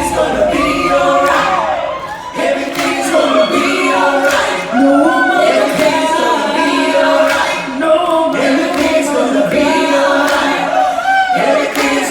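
A group of voices singing together, choir-like, several melodic lines at once.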